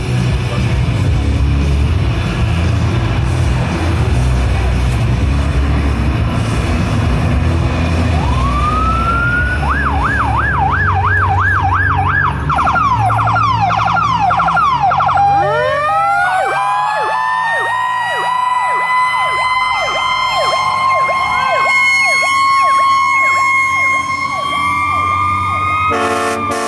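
Fire truck sirens passing in a parade. After a few seconds of low rumble, an electronic siren wails up and switches to a fast yelp. About halfway through, a mechanical Federal Q siren winds up and holds its rising wail over chopping electronic siren sweeps, and an air horn sounds near the end.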